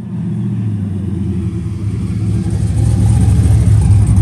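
Chevrolet Camaro's LS1 V8 running at low speed with a steady low note, growing louder about two and a half seconds in as the car comes up close.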